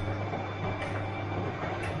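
Bosch washing machine running: a steady low motor hum under continuous churning noise, with brief higher swishes at the start and again near the end.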